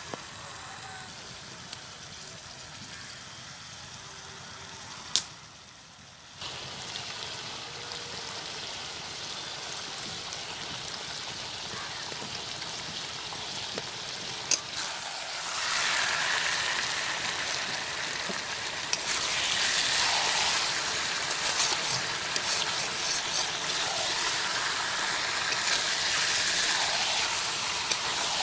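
Spice-coated chicken pieces sizzling in oil in a kadai, a steady hiss that grows louder about halfway through as the pan heats up. A few sharp clicks, and near the end a spatula stirring and turning the pieces.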